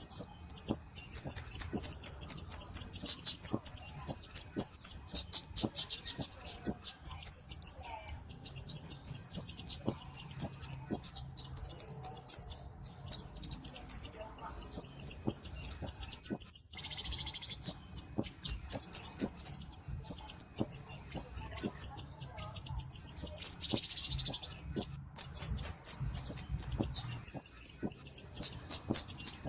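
Kemade (cabe-cabean) bird singing: fast runs of sharp, high-pitched chirps lasting several seconds each, broken by brief pauses.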